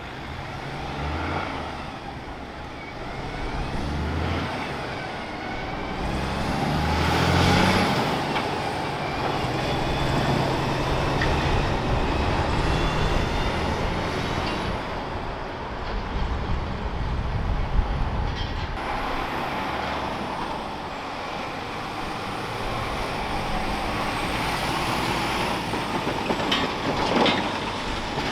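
Heavy diesel trucks driving past, their engine note rising and falling as they pass and change speed. A loud hiss comes about seven seconds in.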